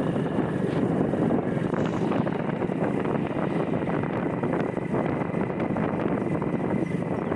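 Steady wind buffeting the microphone over engine and road noise from a moving motorbike.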